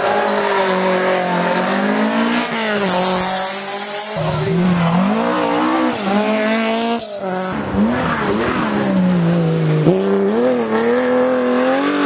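Historic rally car engines at full throttle, the note climbing and dropping again and again with gear changes and lifts off the throttle. The sound breaks off abruptly a few times, as from one car to another.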